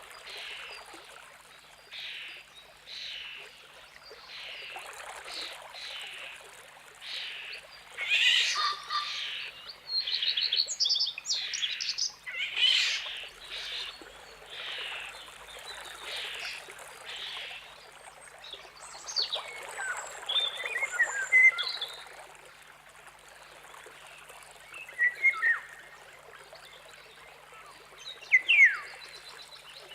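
Wild birds calling: short raspy calls repeated about once a second, louder harsh chattering calls about 8 to 13 seconds in, then thin whistled song notes in the second half, over a faint steady hiss.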